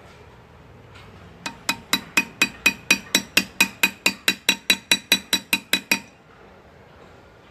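Hand engraving by hammer and chisel: a small hammer tapping a steel graver into metal in an even rhythm of about four to five ringing taps a second. The tapping starts about a second and a half in and stops near six seconds.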